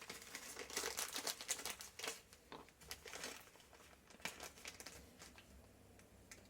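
Small plastic bag of carburettor rebuild-kit parts crinkling as it is handled, with light clicks of small parts. Busiest in the first three seconds or so, then only a few soft ticks.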